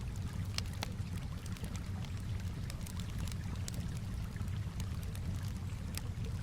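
Campfire crackling with scattered sharp pops over a steady low wash of calm water.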